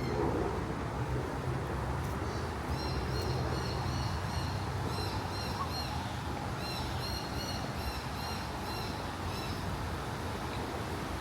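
A songbird calling in rapid series of short, repeated high chirps, in two runs with a brief pause between them, over a steady low hum of city traffic.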